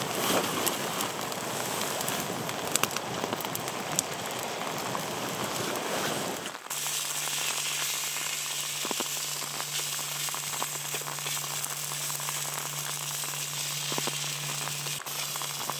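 Rain and wind noise with scattered crackles, then, after a sudden change about six and a half seconds in, a steady sizzle with crackles over a low steady hum: food frying on a camping stove.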